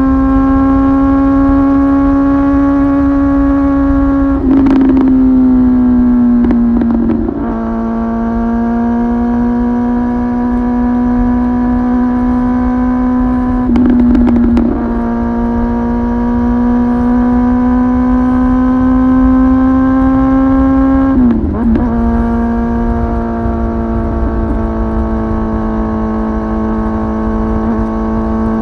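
Kawasaki ZX-10R inline-four sport bike engine running through a titanium aftermarket muffler, held at a steady engine speed and rising slowly in pitch. Three gear changes break it: one about four and a half seconds in, one about fourteen seconds in and one near twenty-one seconds. Each brings a short rough crackle and a drop in pitch.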